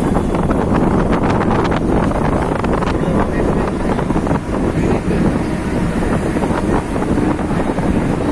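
Mumbai suburban local train running into a station: the steady rumble and rattle of the carriage, with wind buffeting the microphone at the open door. A run of sharp clicks from the wheels passes in the first three seconds, and a steady low whine comes in near the end.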